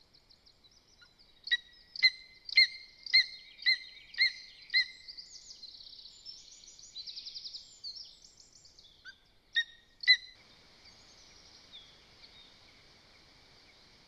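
Wild birds calling: a run of six sharp, evenly spaced calls, about two a second, followed by fainter twittering and trilling song. Two more sharp calls come near the end, then only a steady hiss.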